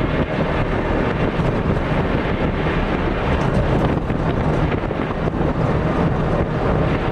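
Rally car's engine running steadily under way, with road and wind noise, heard from inside the cabin.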